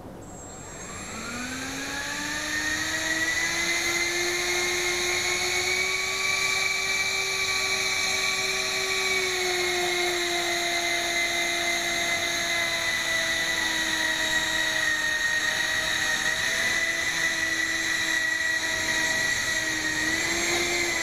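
Electric ducted fans spooling up into a rising high-pitched whine over the first few seconds, then running at steady high thrust with slight wavers in pitch, and starting to spool down at the very end.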